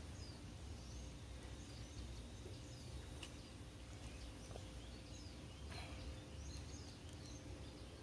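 Faint high chirps of small birds scattered throughout, over a steady low rumble of outdoor background noise.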